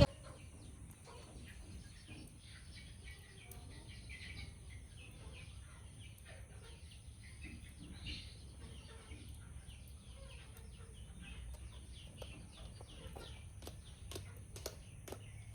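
Faint bird calls: short chirps scattered through, some of them like a hen clucking, over a steady low background hum.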